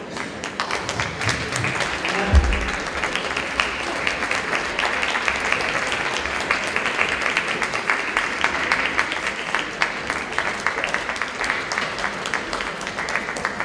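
Audience applauding steadily, with a single low thump about two seconds in.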